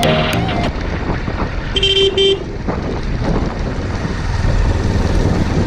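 A vehicle horn honks once, briefly, about two seconds in, over steady road traffic and engine noise.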